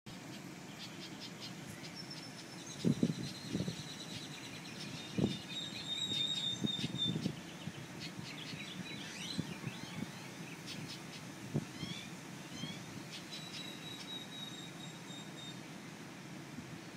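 Several songbirds chirping and calling, with rapid clicking trills, a few held high whistles and quick downward-sweeping notes, over a steady low outdoor background. A few dull low thumps stand out among the calls, one of them near the twelve-second mark.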